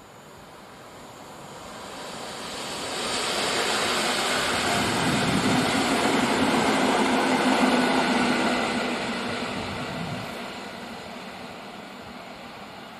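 EN57-type electric multiple unit passing on the tracks. The rumble of its wheels swells over the first few seconds, holds loud with a steady low hum, then fades as the train draws away.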